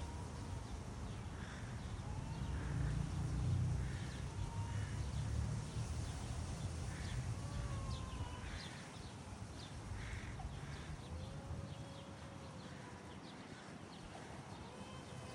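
Birds calling: short harsh calls repeat every second or so, mixed with a few drawn-out whistled notes, over a steady low rumble.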